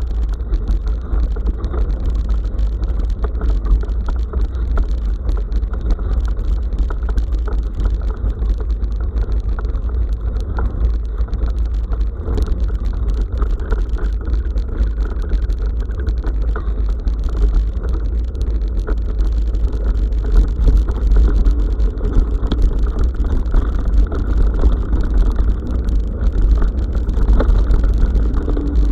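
Bicycle riding along a forest track, with the tyres and frame giving a constant clatter of small knocks over a deep, steady wind rumble on the action camera's microphone.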